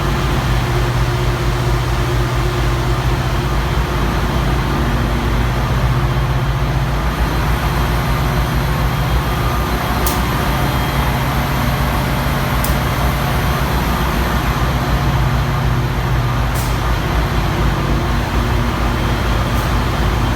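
Train running close by: a steady loud rumble with a low diesel engine hum that rises and falls, and four brief high squeaks or ticks in the second half.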